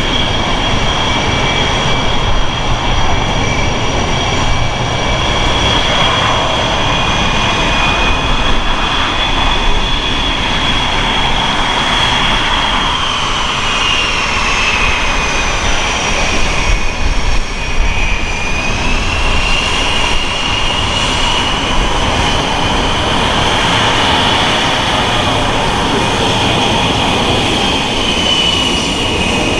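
Boeing F/A-18E/F Super Hornet jet engines running with a loud, steady roar and a high whine. The whine dips in pitch about halfway through, then climbs back.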